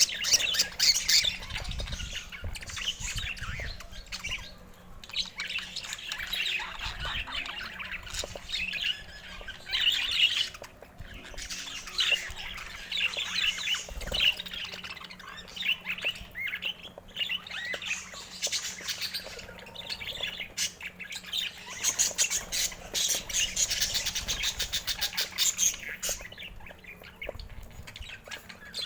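Pet budgerigars chattering: a continuous stream of quick chirps, squawks and warbles, with brief pauses now and then.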